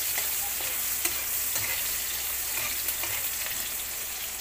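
Chopped garlic and onions sizzling in hot oil in a metal wok, a steady frying hiss, with light scrapes and taps of a spatula stirring them against the pan.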